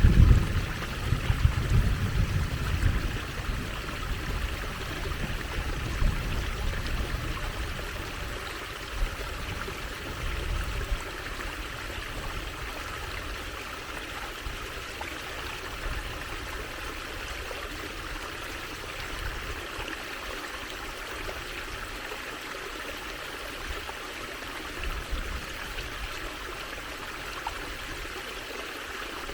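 Water trickling and running steadily, like a small stream. A low rumble, loudest at the very start, fades out over the first ten seconds or so.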